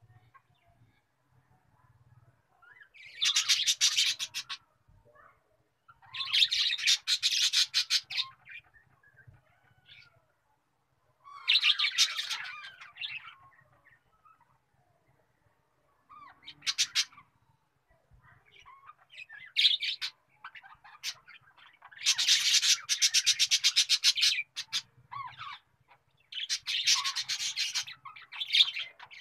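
Small birds chirping in bursts of rapid, twittering trills, each a second or two long, with short pauses between them.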